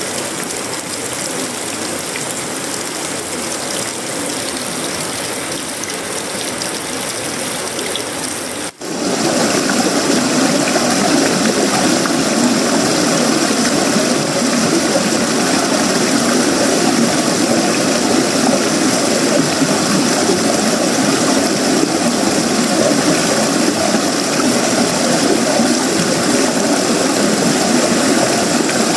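Heavy tropical rain drumming on a sheet-metal roof, wood and leaves in a steady, dense hiss. About nine seconds in, the sound cuts out for an instant and comes back louder and fuller.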